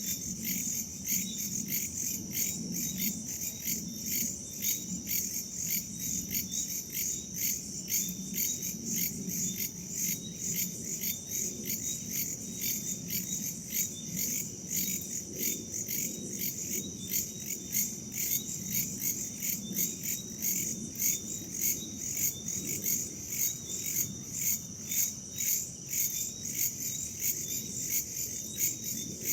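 Chorus of crickets and other night insects chirping in a steady, even pulse, a few high-pitched chirps a second, over a low rumble of wind.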